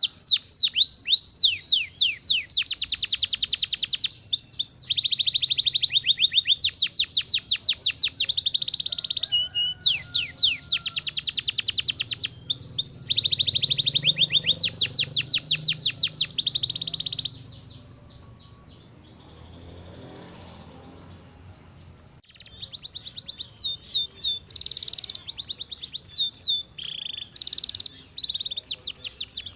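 Domestic canary singing: long, very fast trills and rolls of high, repeated notes, one phrase after another. The song breaks off about 17 seconds in for some five seconds, then starts again a little softer.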